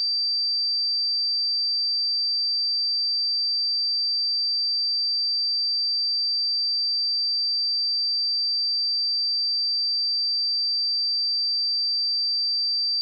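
A steady, unbroken 4675 Hz sine-wave test tone: a single high-pitched pure tone held at constant pitch and level.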